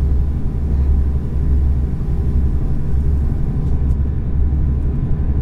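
Steady, deep rumble of a moving passenger train, heard from inside the carriage.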